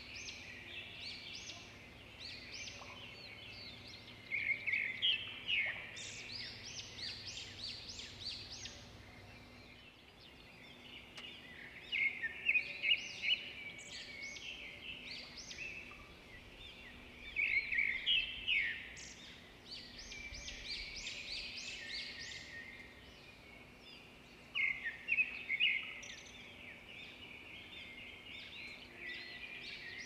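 Birds chirping and twittering in bouts of quick high notes, a fresh bout every few seconds with quieter gaps between.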